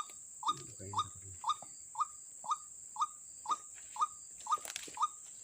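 White-breasted waterhen calling in a steady series of short, slightly sliding notes, about two a second, over a steady high hiss.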